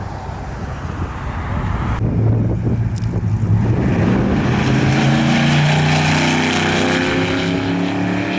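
A car engine running as a car drives past, its note climbing slowly over the last few seconds as it accelerates.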